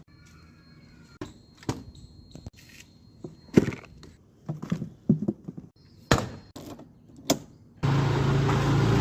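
A series of separate sharp knocks and thuds, like doors and objects being handled, then a loud steady rushing noise with a low hum that starts suddenly near the end.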